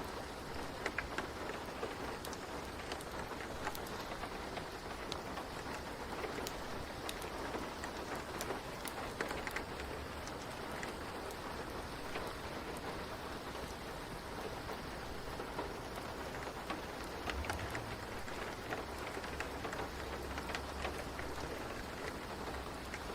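Rain and fireplace ambience: steady rain with scattered small crackles and pops throughout. A low rumble rises about three quarters of the way through.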